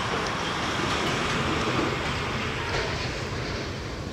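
Express train hauled by a WDM-3A diesel locomotive approaching at speed: a steady rumble of engine and wheels on the rails, growing a little louder about two seconds in.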